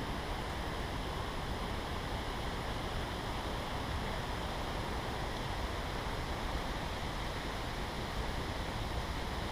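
Steady wind in a forest: an even, unbroken hiss with no single events.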